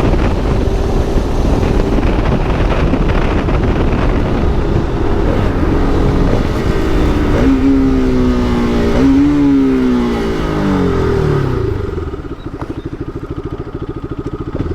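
Motorcycle engine running under way with wind rushing over the microphone; about halfway through the engine note climbs in steps, as with gear changes, then falls away. Near the end the sound drops quieter to a slow, low engine beat as the bike slows.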